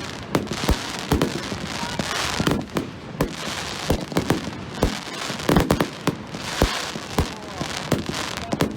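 Fireworks going off: a rapid, irregular string of sharp bangs and cracks, several a second, over a continuous rush of noise.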